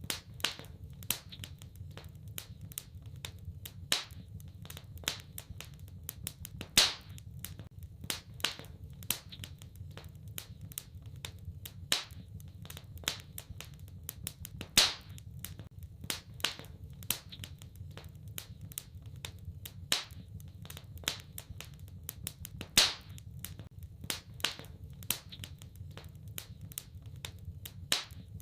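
Wood fire crackling in a fireplace: irregular sharp snaps and pops over a steady low rumble, with a few much louder pops every several seconds.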